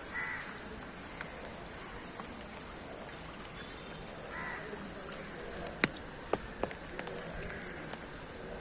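Steady rain falling, with a few sharp drops striking a surface about six seconds in. A short call sounds twice over the rain, near the start and about halfway through.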